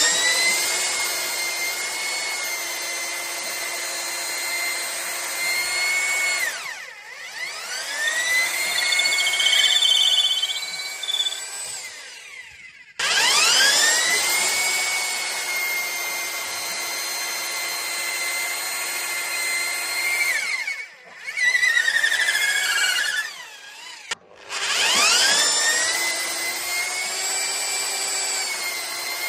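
Parkside PBH 1050 D4 rotary hammer switched on and off several times, its motor whine climbing to a steady pitch each time and dying away when released.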